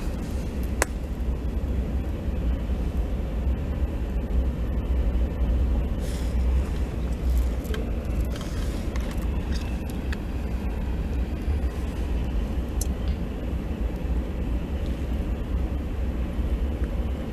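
Steady low rumble of a freight train of covered hopper cars rolling past, heard from inside a car, with a few sharp clicks.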